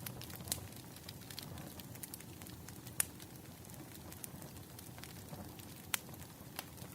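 Firewood burning, crackling with irregular small ticks and a few sharper pops, the loudest about three seconds in and near six seconds, over a steady low hiss of the fire.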